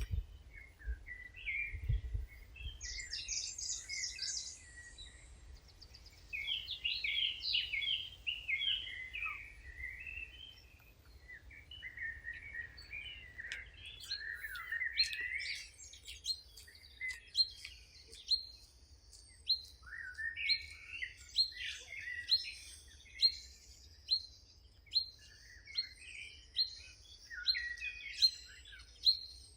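Several wild birds singing, their chirps and warbles overlapping. In the second half one bird repeats a short, sharp note a little more often than once a second.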